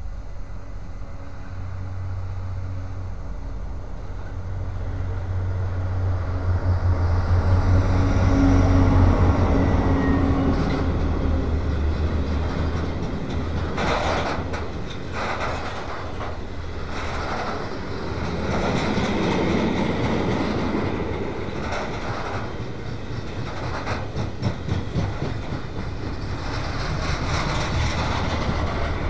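Two diesel locomotives pass with their engines running, loudest about nine seconds in. A long string of loaded freight wagons follows, wheels clicking steadily over the rail joints.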